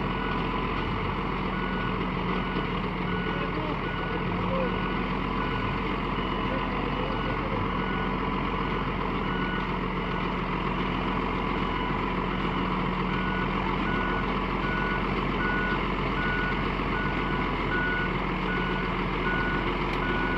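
Heavy tractor's diesel engine running steadily as the tractor climbs onto a logging truck's bed, with a back-up alarm beeping about one and a half times a second. The beeping drops out about four seconds in and comes back about two-thirds of the way through.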